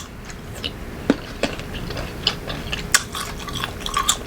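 Close-up chewing of crunchy unripe green mango, with sharp, irregular crunches a few times a second.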